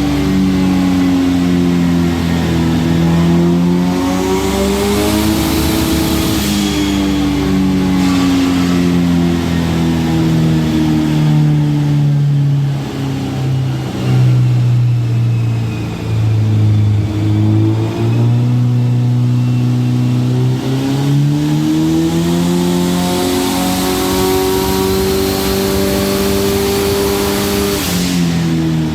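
Turbocharged Nissan FJ20ET four-cylinder engine in a 280ZX running hard, its pitch rising and falling slowly with the revs. It climbs and holds high for several seconds, then drops off sharply near the end.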